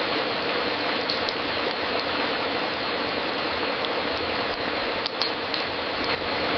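Fireplace fire crackling: a steady hiss with scattered sharp pops and snaps, a few bunched together near the end.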